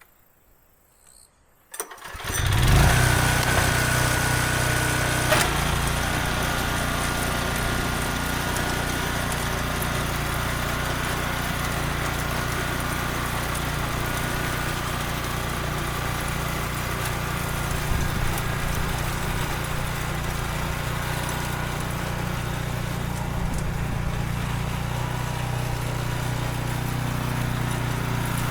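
Small petrol engine of a mini tractor (walk-behind cultivator) starting up about two seconds in and then running steadily.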